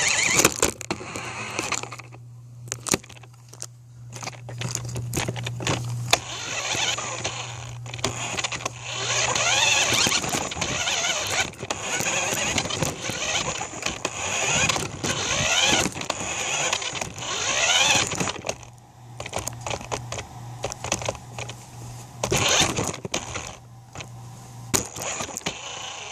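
Electric motor of a radio-controlled toy car whining, its pitch rising sharply again and again as it speeds up, over rattling and knocking from the car running across the ground.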